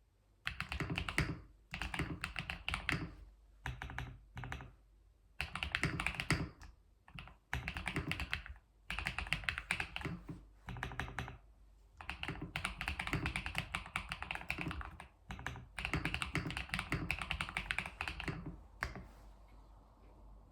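Typing on a computer keyboard: runs of rapid clacking keystrokes, each lasting one to three seconds, separated by short pauses. The typing stops near the end.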